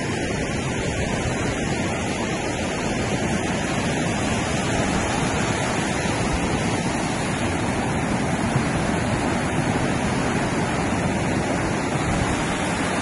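Steady sea surf washing on the beach, mixed with wind on the microphone: an even, unbroken noise.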